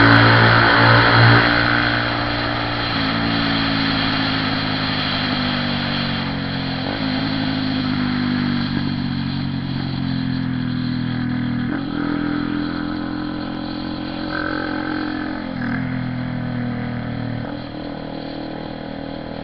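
Honda CB 300R single-cylinder motorcycle engine under way: loud with revving at first, then running steadily, its pitch stepping down sharply and climbing again about four times.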